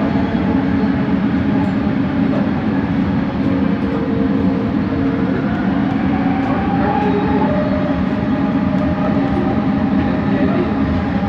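Bombardier Innovia ART 200 metro train running, heard from inside: steady rolling noise with the linear induction motors humming in low tones. A fainter higher tone shifts upward in pitch about midway.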